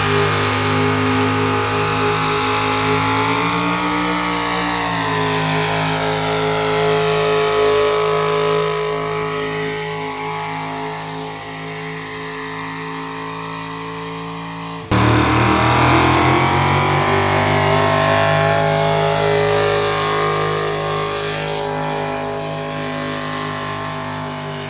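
Engine of a pulling vehicle running at high revs under load, its pitch sagging slightly and holding as the sled drags. About halfway through it cuts abruptly to another run at full throttle that slowly drops in pitch.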